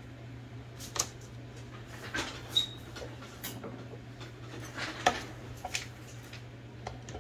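Scattered light metallic clicks and taps from handling the mechanism of an Olivetti Linea 98 manual typewriter during repair, about five in all, over a steady low hum.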